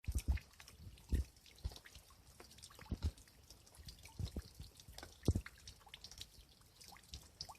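Rainwater dripping in irregular single drops, some landing with dull plops and a few with short higher plinks.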